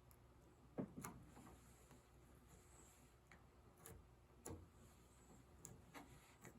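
Mostly quiet room with a few faint, sharp clicks and taps, about half a dozen spread irregularly, from small hand work fitting a thin wood veneer patch.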